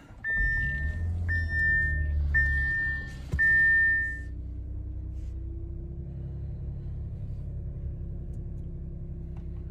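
Audi Q7 engine starting: it catches just after the start, runs at a raised rev for about three seconds, then settles to a steady idle. A steady dashboard chime tone sounds four times in the first four seconds.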